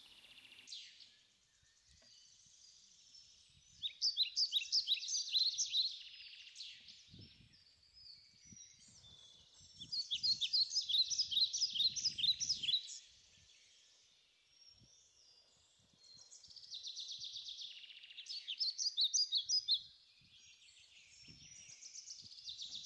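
A songbird singing in separate phrases, each a few seconds of rapid high-pitched notes, four times with short pauses between. A few faint low knocks come in between.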